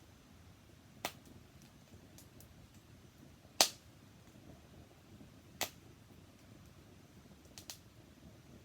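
Wood fire crackling: a few sharp, separate pops from the burning wood, the loudest about three and a half seconds in and a quick double pop near the end, over a faint steady background.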